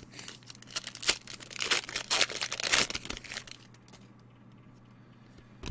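Trading-card pack wrapper crinkling and tearing as it is opened, with crackles and clicks of cards being handled, for about three and a half seconds before it goes quiet; a short thump comes at the very end.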